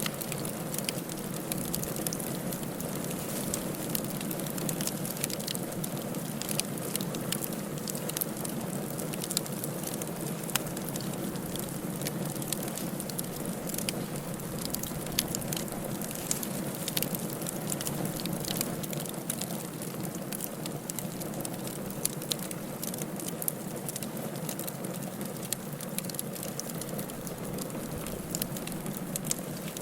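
Firewood burning in a fireplace: a steady hiss of flames with many small sharp crackles and pops scattered irregularly throughout.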